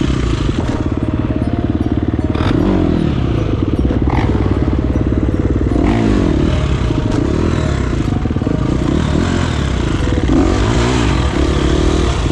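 A dirt bike being ridden, its motor pitch rising and falling over and over, under a heavy low rumble. A few sharp clatters come through along the way.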